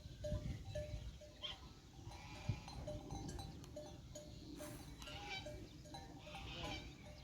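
A flock of small livestock bleating, with wavering calls a couple of seconds in and again near the end. Behind them runs a steady series of short, even notes, about three a second.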